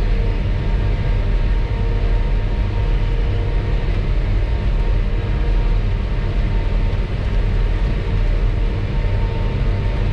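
Self-propelled forage harvester running steadily under load while chopping forage sorghum, heard from inside the cab: a constant low engine drone with steady whining tones from the cutterhead and drives.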